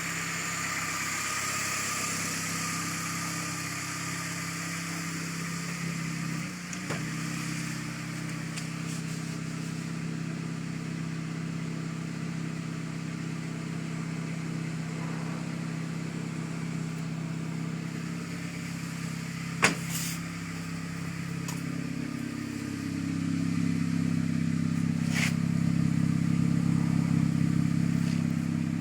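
Honda Accord engine running at a steady idle, with a single sharp click about twenty seconds in. Near the end the engine note rises a little and grows louder.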